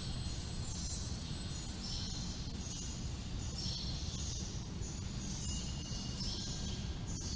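Wind rumbling on the microphone, with small temple bells tinkling in the breeze in light, high clusters every second or so.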